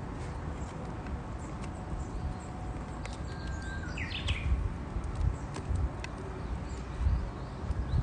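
Wood campfire crackling with scattered sharp pops over a low rumble. About three and a half seconds in, a Japanese bush warbler sings once: a held whistle, then a quick rising-and-falling flourish.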